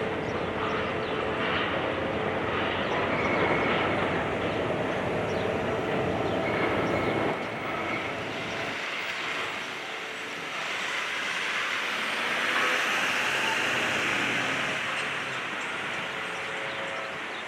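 Demolition machinery at work, a high-reach excavator tearing down a building: a steady rumbling, grinding din of engine and breaking material. The deep rumble thins out about eight seconds in, and a hissier noise swells near the end.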